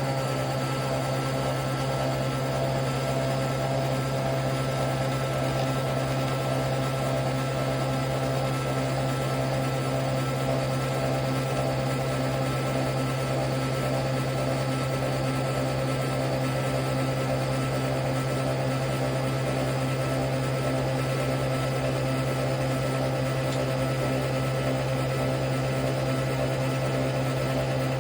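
Nespresso Vertuo Next coffee machine running a brew cycle: a steady motor whir with a strong low hum, the capsule spinning as it brews.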